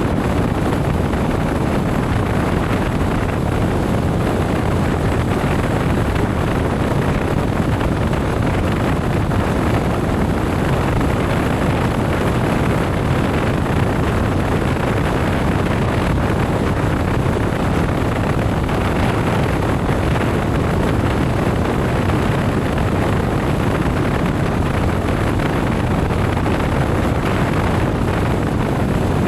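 Motorcycle riding at a steady speed: a constant rush of wind on the microphone over the engine and road noise.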